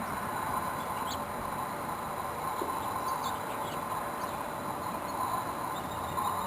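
Steady buzzing of many honeybees foraging on a flowering winterberry holly bush, with a few short bird chirps.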